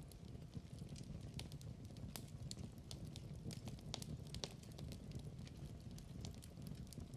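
Wood fire burning in a fireplace: a low steady rumble with many irregular small crackles and pops.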